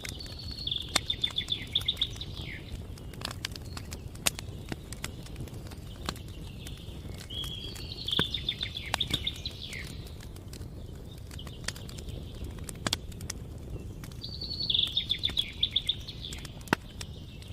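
Campfire crackling with scattered sharp pops over a steady low rumble, while a songbird sings three rapid trilled phrases: at the start, about eight seconds in, and near the end.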